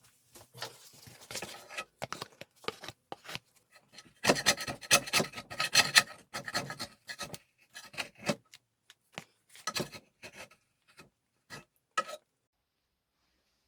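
A hand tool scraping or rasping on wood in short, irregular strokes, densest and loudest a few seconds in, stopping about twelve seconds in.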